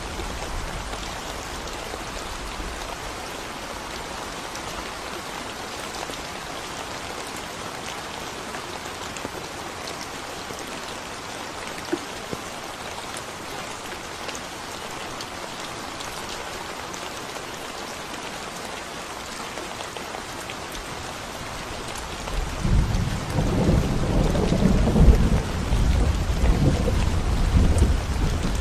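Steady rain falling on a concrete road, an even hiss of drops. About three quarters of the way through, a low rumble of thunder rolls in and grows louder.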